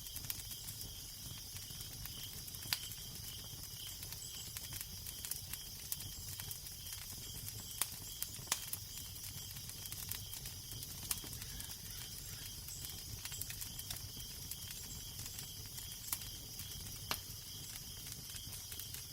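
Crackling fire with scattered sharp pops and snaps at uneven intervals, over a steady low wind rumble and a high hiss.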